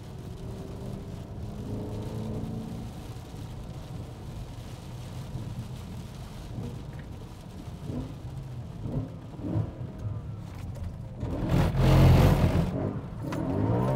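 BMW E90 M3's 4.0-litre V8 with an aftermarket exhaust, heard from inside the cabin: running at low revs, with a few short throttle surges about eight to ten seconds in. Near the end it revs hard in a loud burst as the car slides sideways on the wet road.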